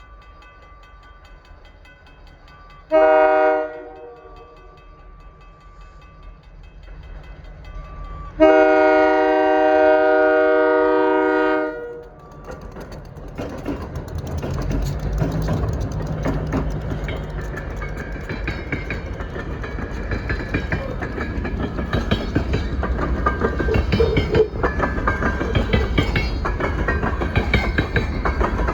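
Diesel locomotive horn sounding a short blast about three seconds in, then a long blast of about three and a half seconds. Then the coal train passes: an engine rumble and wheel clatter on the rails, growing louder.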